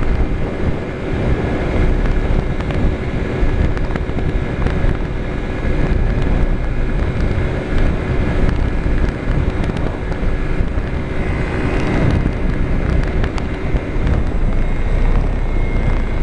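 Small motorcycle engine running steadily at highway speed, with wind buffeting the microphone. The rider says the bike is running weak; he blames a broken carburetor jet.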